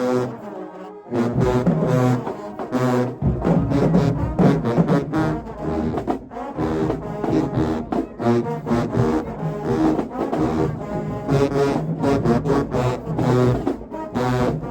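Marching band playing loudly: a massed brass section in short, punchy repeated phrases. There is a brief break about a second in, and the deep low end fills in from about three seconds in.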